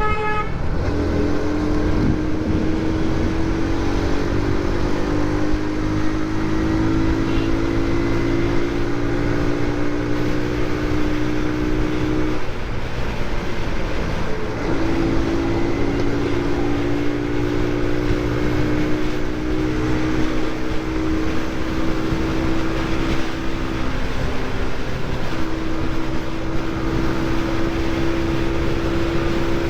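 Motorcycle engine running at road speed of about 80 on the speedometer, with heavy wind rush on the mic. The engine note climbs slowly, drops away about twelve seconds in, then picks up again, with another break near the end.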